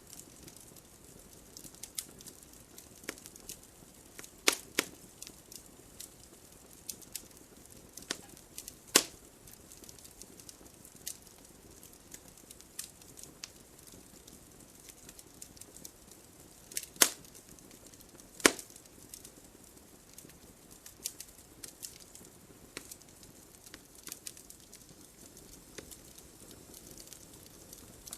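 Wood logs burning in a fireplace, crackling with irregular small snaps and pops over a soft hiss, and a few louder pops scattered through.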